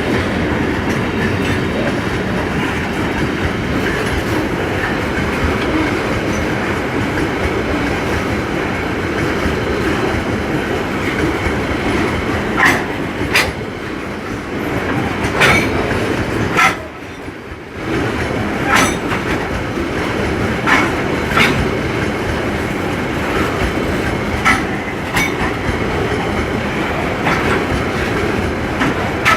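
A train rolling past, a steady rumble with wheels clattering over the rail joints. From about halfway, sharp clicks come in close pairs as wheelsets cross the joints, with a brief drop in loudness a little past the middle.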